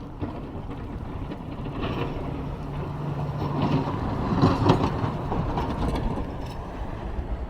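A vehicle passing on a city street. Its hum rises and the noise swells to a peak about halfway through, then eases off.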